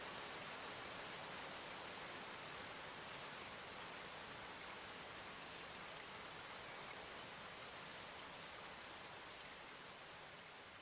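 Faint steady rainfall ambience, an even patter of rain that slowly fades out near the end.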